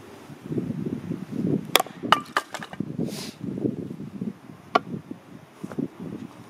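Firewood being split with an axe: several sharp chopping knocks, bunched together about two seconds in and once more near the five-second mark, one with a short metallic ring, over a low rumbling noise.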